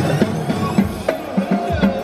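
Live drumming and percussion in a rhythm battle, played to a backing music track, with sharp hits and clicks over held notes.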